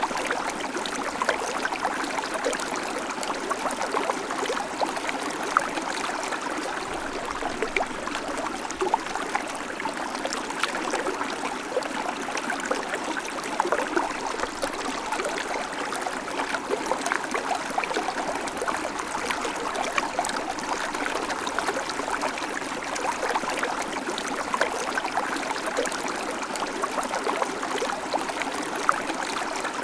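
A small creek babbling steadily over stones, a continuous rush of water full of small splashes and gurgles.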